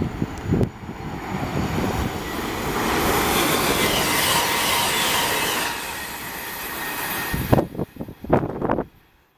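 East Midlands Trains express passenger train running through a station at speed without stopping: a rush of wheel and air noise that builds, peaks about four seconds in and fades. Near the end come several loud thumps of wind buffeting the microphone.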